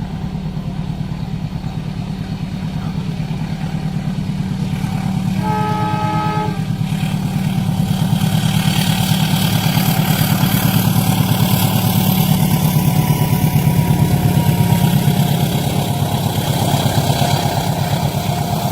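A train horn sounds for just over a second, about five seconds in. Then the noise of a train passing a level crossing builds, loudest about three-quarters of the way through, over a steady low rumble.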